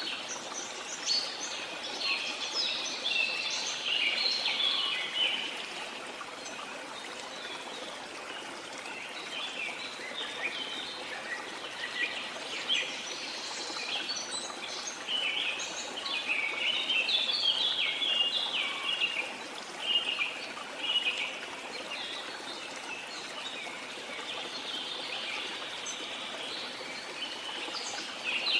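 Many birds chirping and calling over a steady rush of flowing water, the bird song busiest at the start, in the middle and again near the end.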